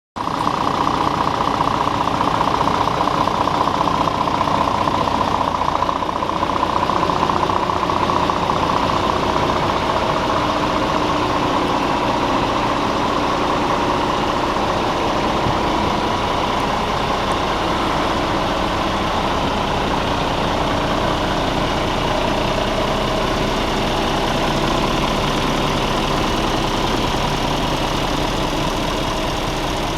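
Scania R450 tractor unit's 13-litre six-cylinder diesel engine running steadily, a little louder in the first few seconds.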